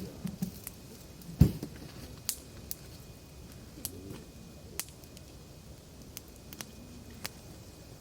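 Firewood crackling and popping in a campfire, with irregular sharp snaps, the loudest about a second and a half in.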